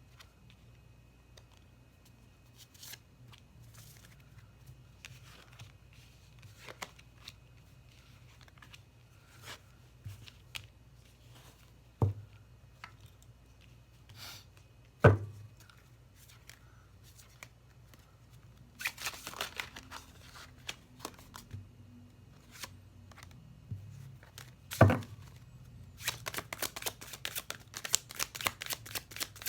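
Tarot cards being handled and shuffled: scattered card slides and rustles, three sharp knocks of the deck against the table, and a fast run of card flicks near the end as the deck is shuffled.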